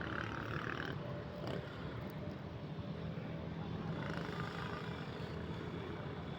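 Steady low hum of a running engine amid street noise.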